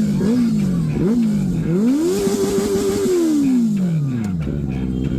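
Benelli motorcycle engine revved in two quick blips, then one longer rev held for about a second before the revs fall back to a steady idle near the end.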